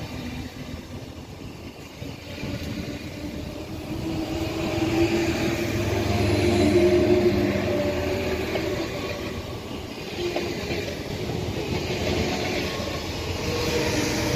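Double-deck RER electric commuter train of the Z2N family running past close by: a steady rumble of wheels on the rails with a low motor hum, getting louder toward the middle.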